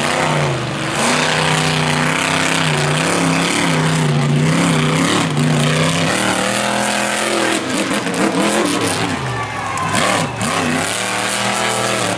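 Monster truck engine revving hard, its pitch rising and falling over and over, with quicker swoops of throttle late on.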